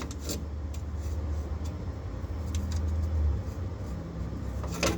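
A low, steady machine hum, with a few light clicks and knocks near the start and the end.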